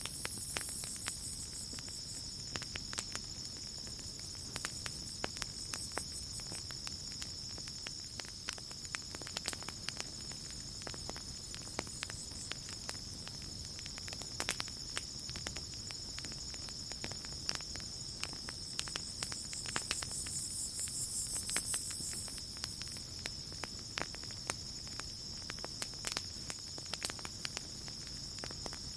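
Campfire crackling with frequent sharp pops, over a steady high-pitched chorus of night insects. A louder insect trill swells about twenty seconds in.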